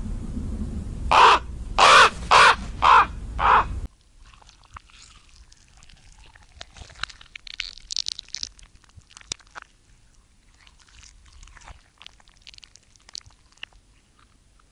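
A bird giving five loud, harsh calls in quick succession over the first few seconds. About four seconds in the sound cuts off abruptly to faint scattered clicks and a few faint chirps.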